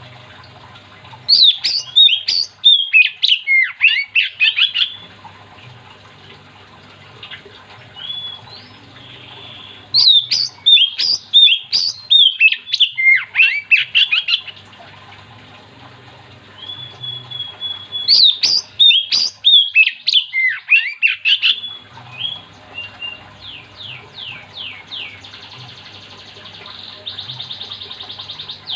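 Oriental magpie-robin (kacer) singing in full voice: three bursts of rapid, varied whistled phrases, each a few seconds long, with single whistles between them and a quick run of falling notes near the end. A faint steady low hum runs underneath.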